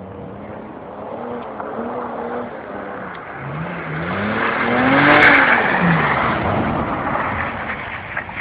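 A car engine revving up and down again and again as the car slides sideways through snow. It grows louder as the car comes closest about five seconds in, then fades away.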